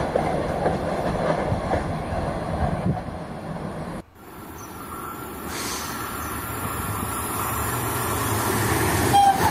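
High-speed train rumble from passing footage. It cuts off abruptly about four seconds in, then a new rush of rail noise builds steadily as a Spanish Alvia high-speed train approaches.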